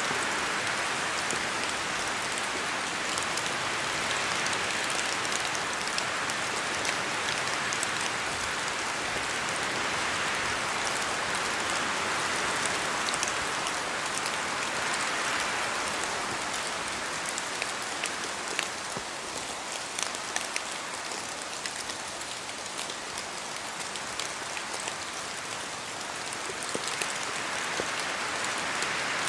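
Steady rain falling in a forest, with drops dripping from the trees as scattered light ticks over a continuous hiss. The hiss swells and eases in slow waves and softens a little past the middle.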